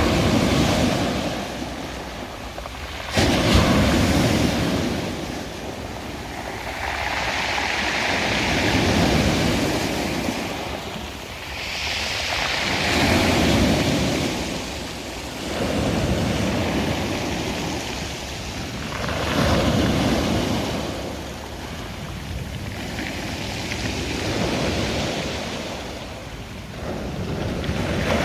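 Sea waves breaking on the shore, one surge of surf rising and falling every four seconds or so, with a sharper, louder surge about three seconds in.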